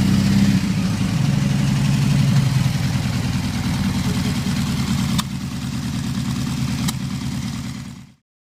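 Turbocharged 1776cc air-cooled VW Type 1 flat-four engine on twin carburettors, running steadily. Two sharp clicks come a little past halfway, about a second and a half apart. The sound cuts off suddenly near the end.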